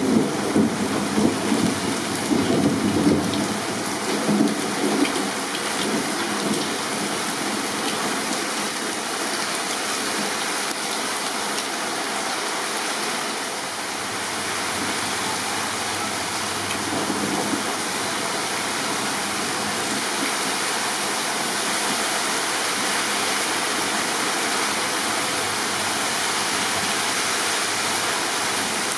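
Torrential rain pouring down steadily during a thunderstorm, with thunder rumbling for the first few seconds and once more faintly about halfway through.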